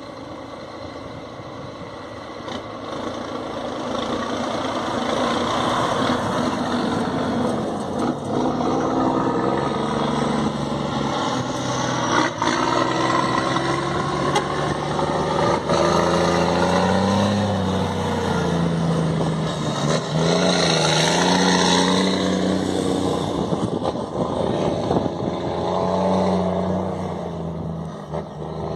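Scania truck's diesel engine running through a straight-pipe exhaust, a deep exhaust rumble whose pitch rises and falls as it is revved. It gets louder about four seconds in.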